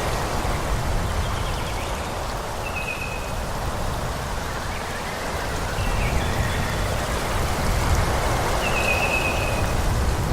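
Wind blowing through forest trees, a steady rushing that eases and swells again, with a few short, high bird calls over it.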